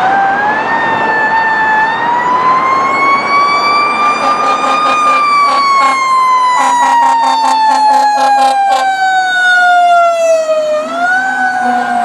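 Fire engine siren on a 2013 Pierce Arrow XT wailing as the truck responds, its pitch climbing slowly for about five seconds, then sliding down, dipping briefly and climbing again near the end. In the middle a rapidly pulsing second warning sound and a low horn-like tone sound over it.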